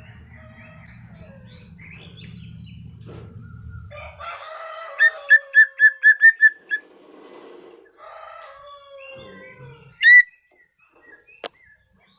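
White-rumped shama (murai batu Medan) singing a varied song of whistled notes and glides. Midway it gives a run of about eight loud, quick repeated notes, and near the end one loud rising note.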